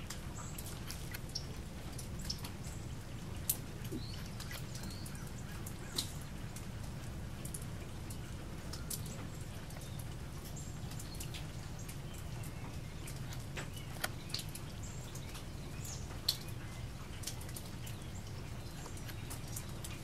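Small birds giving scattered short, sharp chips and ticks with a few brief high chirps, over a steady low hum.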